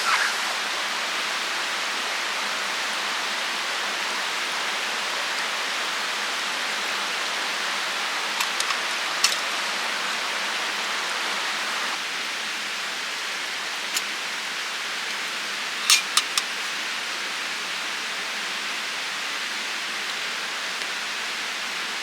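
Steady, even rushing noise with no pitch, stepping slightly quieter about halfway through, with a few sharp clicks, a cluster of them about three quarters of the way in.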